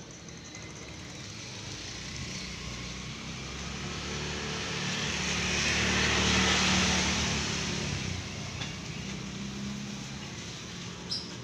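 A car passing by, its engine and tyre noise swelling to a peak about six seconds in and then fading away.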